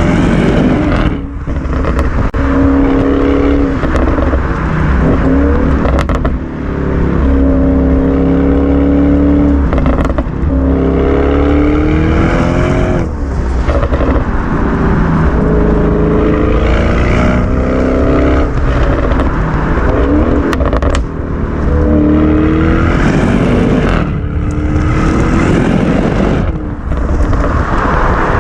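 Audi RS6 Performance's twin-turbo V8 running loud through an Akrapovic titanium exhaust, its note rising and falling repeatedly, with short dips in level every few seconds as the revs drop.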